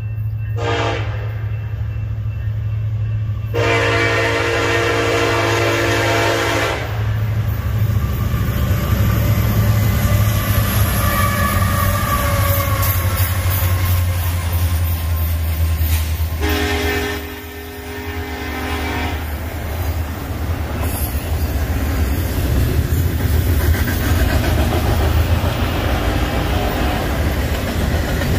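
Union Pacific diesel freight locomotive passing with its air horn: a short toot near the start, a long blast a few seconds in, and another long blast past the middle, over the deep steady rumble of the diesel engines. The double-stack intermodal cars then keep rolling by with a continuous rumble and clatter of wheels on rail.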